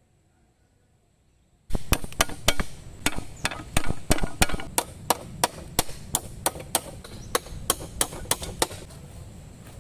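Wood being chopped: a fast run of sharp strikes, about three or four a second, starting after a second and a half of near silence and stopping near the end.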